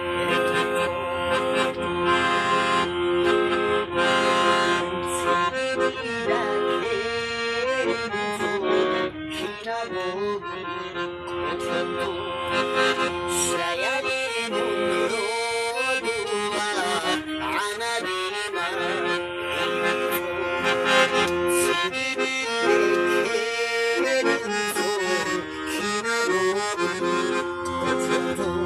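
Accordion playing a traditional folk tune, with sustained chords under a quick-moving melody.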